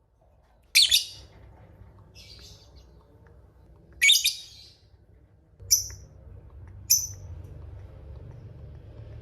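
Lovebird giving five short, shrill chirps spread over several seconds, the third the loudest and the second faint, over a low steady hum.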